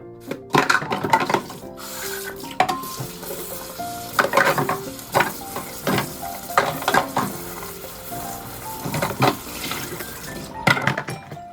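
Background music over a series of short, irregular scraping and rattling strokes, the sound of a container and its contents being handled.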